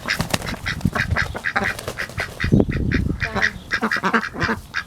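A small flock of domestic ducks quacking and chattering in quick, overlapping short calls. About two and a half seconds in there is a loud low thump and rustle.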